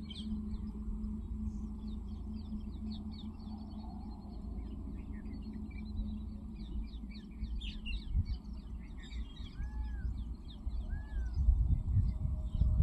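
Small birds chirping busily: many short, high chirps throughout, with two short arching calls near the end, over a steady low rumble.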